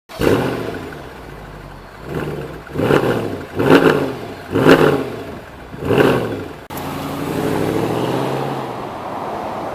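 A supercar engine revved in a series of about six sharp blips, each rising and falling in pitch. After a cut about two thirds of the way through, an engine runs more steadily with a gently wavering pitch.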